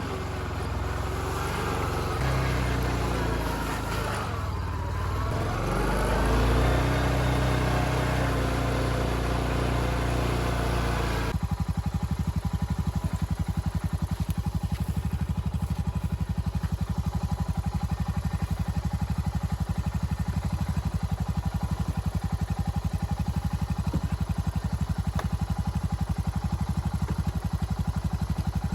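A four-wheeler's engine running, its pitch rising and falling with throttle for about the first eleven seconds, then switching abruptly to a steady, evenly pulsing idle.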